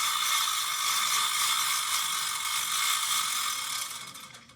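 A workshop machine running with a steady mechanical rattle, which fades out and stops shortly before the end.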